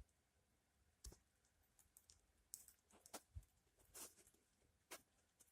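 Faint, irregular clicks and short rustles from a pet bird being scratched on its molting head, fingers working among its sheathed pin feathers.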